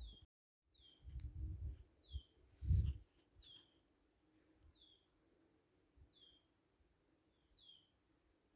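A bird calling over and over in a steady two-part pattern: a short level whistle, then a falling note, about one and a half notes a second. Low rumbling thumps come in the first three seconds, the loudest nearly three seconds in.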